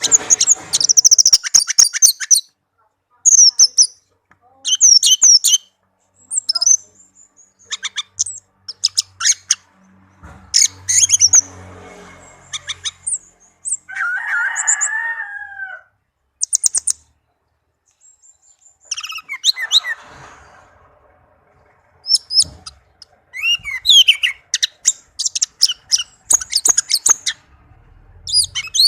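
Orange-headed thrush singing: loud, varied high whistled phrases and chirps in bursts with short pauses between them. A lower, different call sounds about halfway through.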